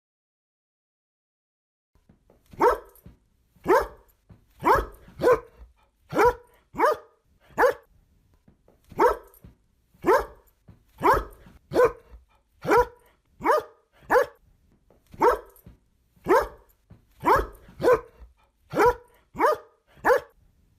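A dog barking angrily: about twenty short barks, singly and in quick pairs with gaps between, starting about two and a half seconds in.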